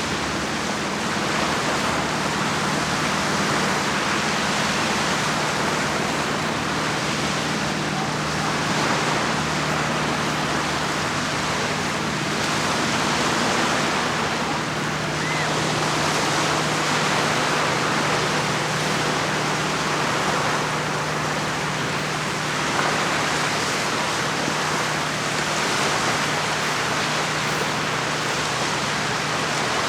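Small waves on Lake Como washing against the shore: a steady rushing with gentle swells every few seconds, over a faint low steady hum.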